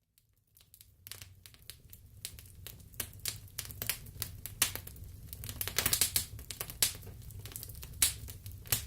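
Wood fire crackling in a fireplace: irregular pops and snaps over a low steady rumble, fading in during the first second.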